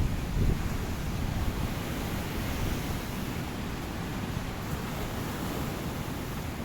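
Ocean surf washing on a beach, a steady rush of waves, with a stronger low rumble in the first second.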